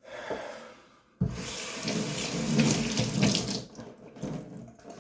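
Sink tap turned on about a second in, water running and splashing into the basin, then quieter, uneven splashing after about three and a half seconds.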